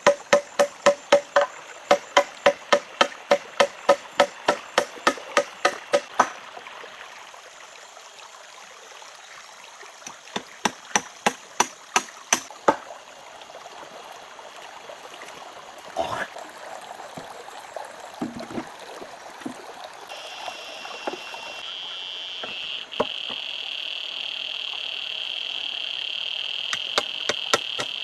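Quick, even knocks of a tool on wood, about three a second, stopping about six seconds in, then another short run a few seconds later and scattered single knocks. From about twenty seconds a steady high insect drone sets in, over a constant wash like running water.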